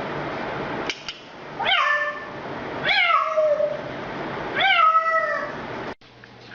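A cat meowing three times, each meow rising and then falling in pitch. Before them a steady hiss cuts off about a second in.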